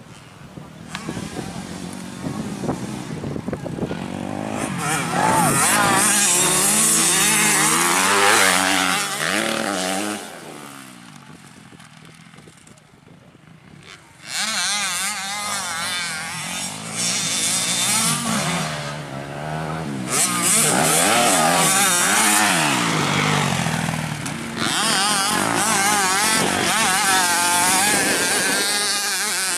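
Motocross dirt bike engines revving up and down repeatedly as they ride the track. The sound falls quieter for a few seconds near the middle, then comes back loud suddenly.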